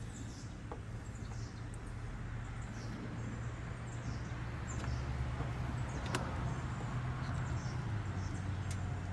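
Birds chirping outdoors, a string of short falling chirps one or two a second, over a steady low hum. A single sharp click sounds about six seconds in.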